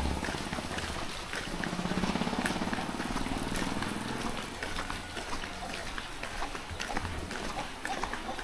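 Rain falling, with many close drops ticking sharply throughout; in the first half the hum of a passing motor vehicle swells and fades.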